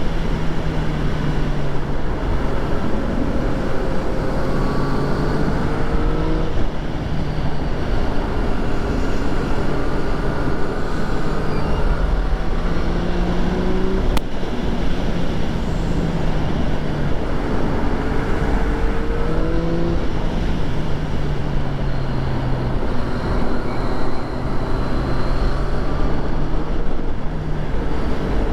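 2014 Yamaha FZ-09's inline three-cylinder engine under way, its pitch climbing slowly and dropping back several times as the bike accelerates and shifts through the gears, over a steady rush of wind and road noise. A single sharp click about halfway through.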